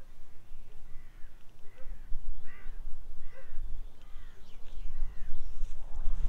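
A bird calling outdoors: about eight short, arching calls in quick succession, over a steady low rumble of wind on the microphone.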